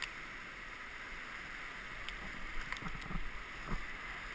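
Steady rush of whitewater river rapids around a raft, with a few short knocks and splashes between about two and four seconds in.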